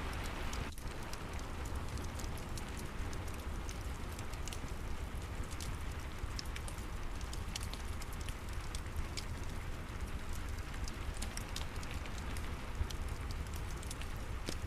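Steady rain falling, with a fireplace crackling: many small sharp pops and ticks scattered over the even hiss of the rain and a low rumble.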